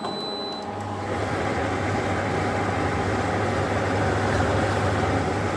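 Hotpoint tumble dryer started with its door open: a short electronic beep, then about a second in the motor starts and the drum turns with a steady hum and rumble.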